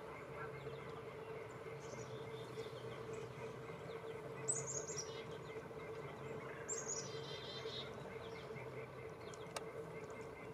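Black-capped chickadee calling: a quick set of high notes dropping in pitch about four and a half seconds in, then again about two seconds later followed by a run of buzzy, lower 'dee' notes, the chick-a-dee call. A steady low hum runs underneath.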